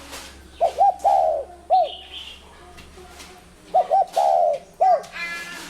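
Spotted dove cooing: two matching coo phrases about three seconds apart, each a couple of quick short notes, then a longer falling coo and a short final note. A brief, higher call with several stacked tones comes near the end.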